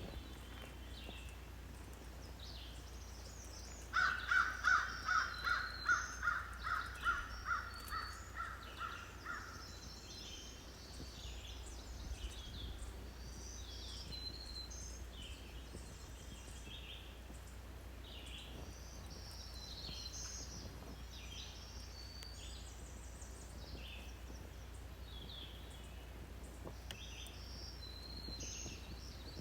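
Birds chirping in woodland, with one bird giving a run of about a dozen harsh calls, about two a second, that fade away between about 4 and 10 seconds in; a steady low rumble lies underneath.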